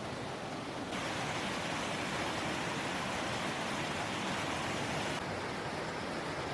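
Steady rushing of river water, a constant hiss with no tones. It jumps abruptly louder and brighter about a second in and drops back just after five seconds.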